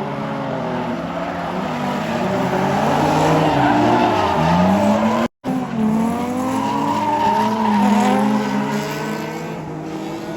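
Race car engines running on a circuit, several at once, their pitches rising and falling as they rev and ease off. The sound cuts out for a split second about five seconds in.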